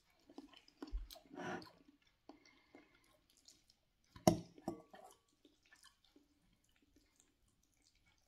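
Chewing a mouthful of instant ramen noodles, with soft mouth noises. About four seconds in, one sharp clink as a metal fork strikes the glass bowl, followed by lighter scraping.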